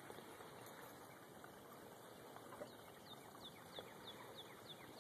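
Near silence with a bird faintly calling: from about halfway through, a quick series of short, high, falling notes, about three a second.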